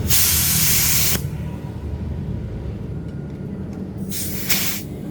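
A loud hissing spray for about a second, then two short hisses near the end, over a steady low rumble of a running machine.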